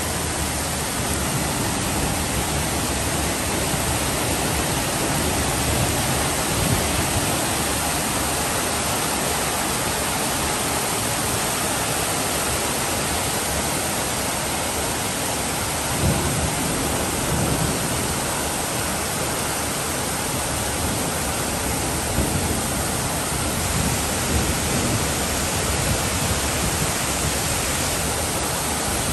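Heavy rain pouring down steadily, a dense even hiss, with low rumbles swelling and fading now and then.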